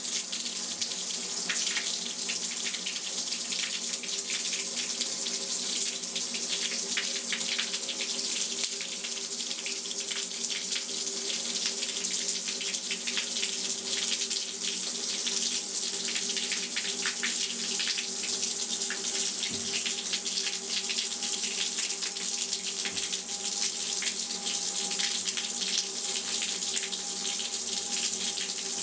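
Water running steadily from a handheld shower head, an even splashing hiss with a steady low hum underneath.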